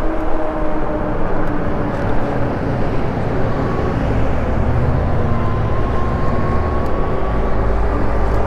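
Wind rush and road noise from riding an e-bike, heard on a chest-mounted action camera, with low buffeting that swells about halfway through. A steady whine runs underneath, rising slightly in pitch in the middle.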